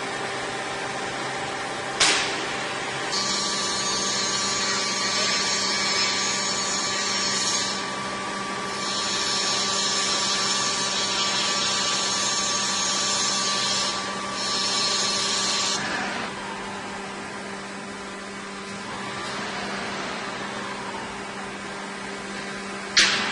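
Metal lathe running with a steady hum, and a high-pitched cutting hiss from the tool on the workpiece that starts about three seconds in, breaks off twice briefly and stops about sixteen seconds in. A sharp click about two seconds in and another near the end.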